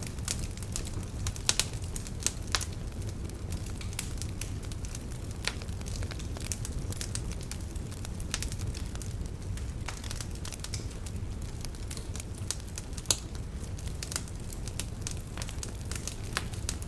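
Wood fire in a fireplace crackling: a steady low rumble of the flames with irregular sharp pops and snaps from the burning logs, a few louder ones about a second and a half in, at two and a half seconds, and near the end.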